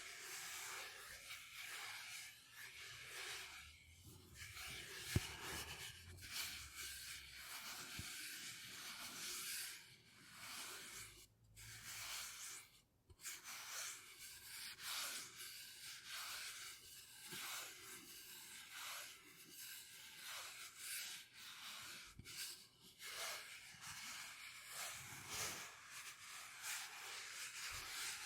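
Soft, close-up rubbing or scratching strokes, repeated at about one and a half a second.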